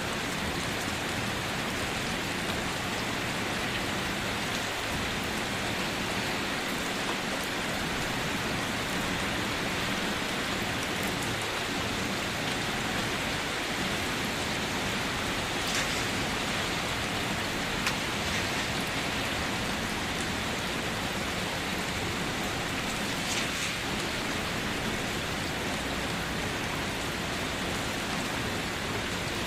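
Steady rain falling on surfaces, an even hiss with a few sharper drops standing out now and then.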